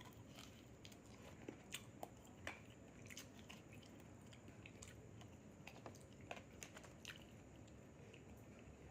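Faint chewing of food, with irregular soft clicks and small crunches from the mouth.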